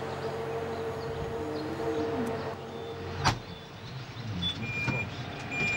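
Farm machinery running steadily with a whine over a low hum, and one sharp knock about three seconds in.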